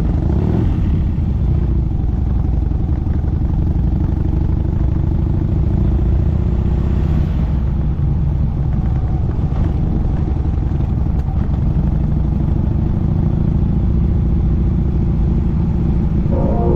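Motorcycle engine running steadily on the move, heard as a continuous low rumble.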